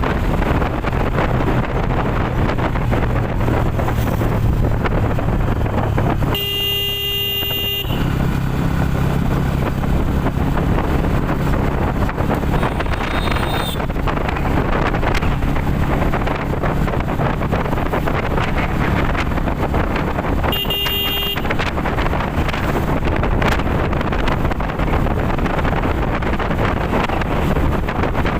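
Motorcycle ride with wind rushing over the microphone and a steady low engine hum. A vehicle horn sounds for about a second and a half a quarter of the way in, then once more briefly about three-quarters of the way in.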